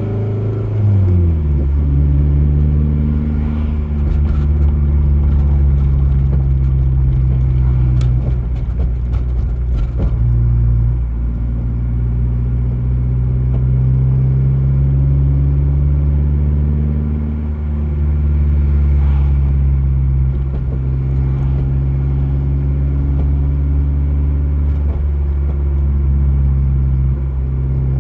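Toyota MR2 SW20 running, its engine note steady with the pitch falling in the first two seconds and dipping again about ten and seventeen seconds in. Scattered sharp knocks come through in the first ten seconds, the kind of weird clunking from the rear that the owner is asking about.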